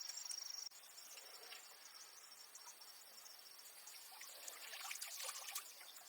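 Insects trilling outdoors: a steady high-pitched chirr that cuts off abruptly under a second in, leaving faint background noise. A few faint clicks and scrapes follow near the end.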